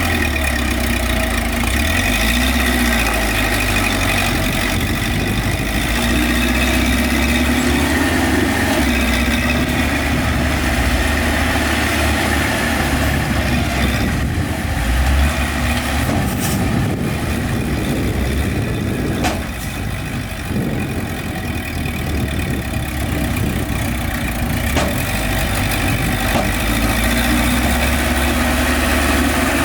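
Heavy diesel engines of dump trucks and a bulldozer running steadily, with a brief drop in level about two-thirds through.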